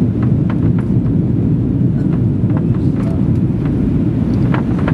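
Steady roar of a Boeing 737-800's engines and airframe heard from inside the passenger cabin, with a few faint clicks and rattles over it.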